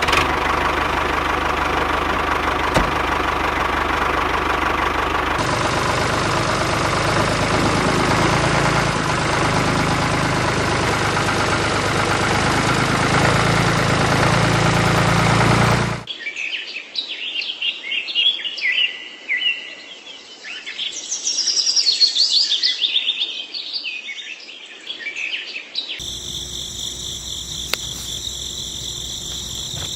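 A small machine runs steadily with a low hum under a broad rattling noise for about sixteen seconds, then cuts off abruptly. Birds chirp after it, and near the end a steady high trilling of insects takes over.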